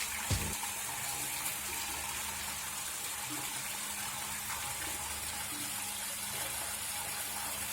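Water falling steadily down a newly built garden waterfall, a constant rushing splash.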